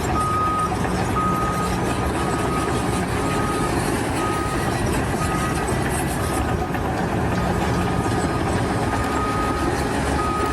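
A vehicle's reversing alarm beeping about once a second, over the steady running of a heavy engine.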